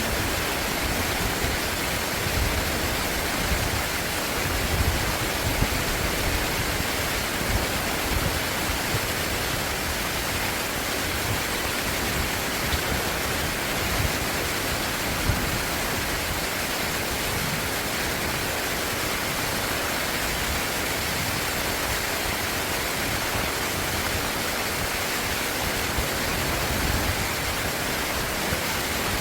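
Stream water rushing steadily, an even hiss of flowing water.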